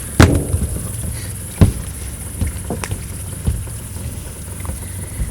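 Hollow thumps and knocks on a pontoon boat, as of people moving about on the deck: two loud knocks, one just after the start and one about a second and a half in, then several lighter ones, over a low steady hum.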